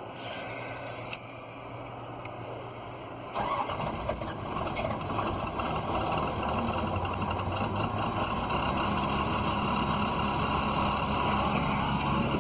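Magnet excavator's engine catches about three seconds in and runs, getting gradually louder as it comes up to speed.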